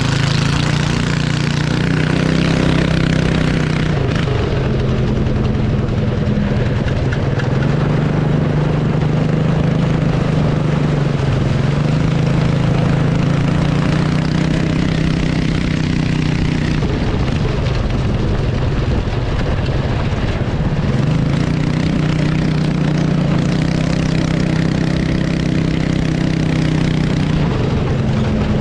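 Cyclekart engine running through a straight exhaust pipe with the muffler removed, loud and barking, its speed rising and falling several times as the kart is driven around.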